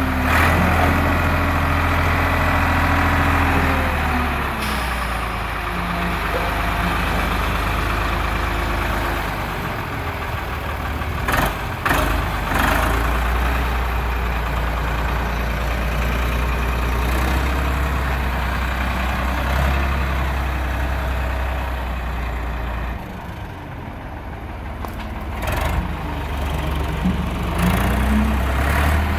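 Tractor engine running steadily with a low hum. Its pitch shifts a few times and rises near the end, and there are a couple of sharp clicks about halfway through.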